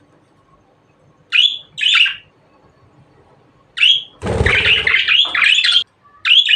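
Budgerigar giving short, sharp chirps, three in the first four seconds, then about a second and a half of rapid harsh chattering over a rough low noise, and one more chirp near the end.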